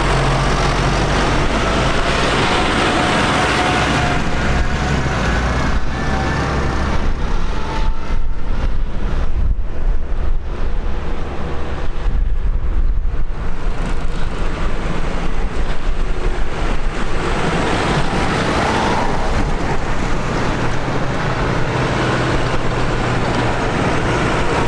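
Tractor engines running as tractors drive past on the road, with tyre and road noise; the sound grows louder and rougher in the middle as one passes close.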